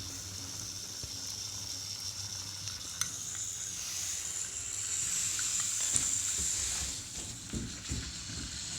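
Battery-operated toy train engines on a wooden track running steadily: a high, hissy motor whine over a low rumble of wheels, the whine edging higher about four seconds in, with a couple of sharp clicks.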